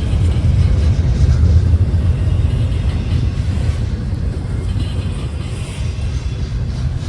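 Steady low rumble of a moving vehicle, easing off slightly toward the end.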